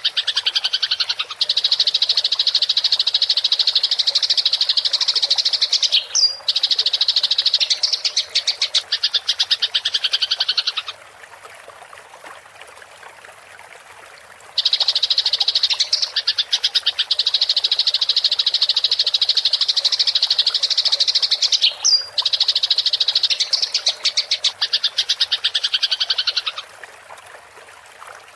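Eurasian tree sparrows in an agitated, fighting chatter: a fast, dense, high-pitched churring trill in two long bouts of about eleven seconds each. Between the bouts are pauses of a few seconds, where only a much fainter hiss of water sound remains.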